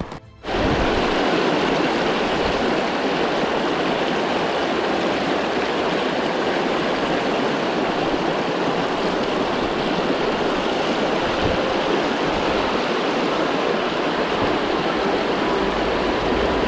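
River water rushing fast and steadily, a loud, even rush that starts abruptly about half a second in.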